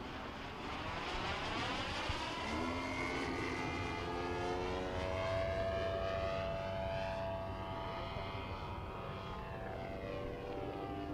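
Gas engine and propeller of a giant-scale radio-controlled Yak-54 in flight. The engine note steps up in pitch a couple of seconds in and grows louder toward the middle, then its pitch slides down near the end as the plane passes and manoeuvres.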